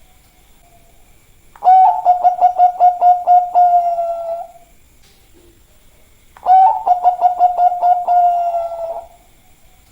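Bangkok zebra dove (perkutut) cooing: two long song phrases, each a held low coo broken by a rapid stuttering run of about five pulses a second, lasting some three seconds, with a pause between them.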